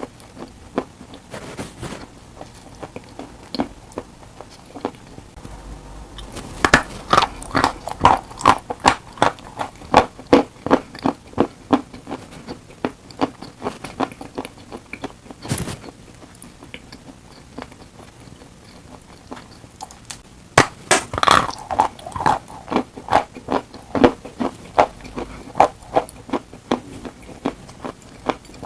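Dry chalk being bitten and chewed: two long runs of rapid, crisp crunching, with one sharp snap of a bite about halfway through and quieter chewing between.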